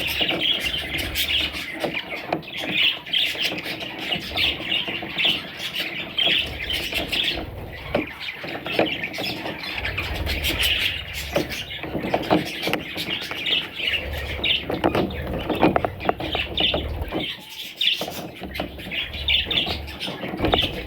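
A group of baby budgerigars squawking and chirping, with many short calls overlapping in a constant chatter. A low hum comes and goes underneath.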